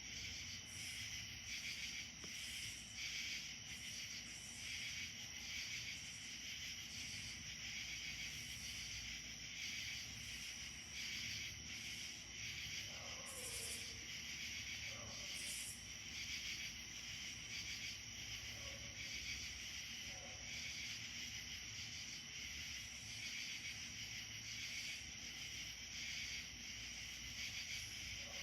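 Steady, shrill chorus of insects, a dense pulsing drone that does not let up. A few faint short calls, some falling in pitch, come through about halfway in.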